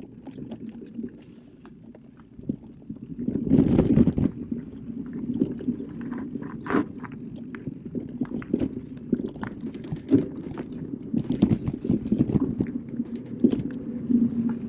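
Electric mountain bike riding over a forest trail: a steady rolling rumble from the tyres with frequent clicks and rattles, swelling louder about four seconds in.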